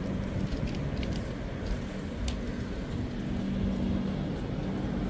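Military goods train of flat wagons carrying army trucks rolling along the track, giving a steady low rumble and hum with a few faint clicks.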